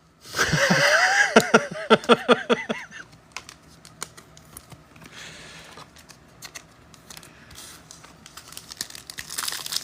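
Trading cards being handled and sorted, a run of light clicks and taps as cards are flipped and set down. Near the end, a foil pack wrapper crinkles as the next pack is opened.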